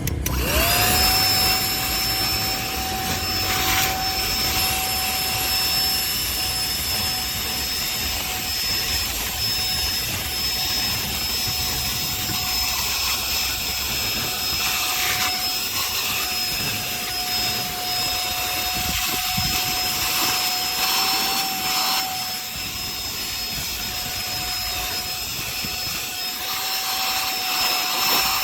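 Cordless handheld vacuum cleaner switched on, its small motor spinning up within a moment to a steady whine with a rush of air, then running on evenly; it drops slightly in loudness about two-thirds of the way through.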